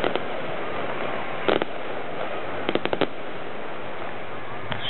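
Fireworks going off: sharp bangs over a steady hiss. There is a pair of bangs about a second and a half in, a quick run of four or five near the three-second mark, and a single one near the end.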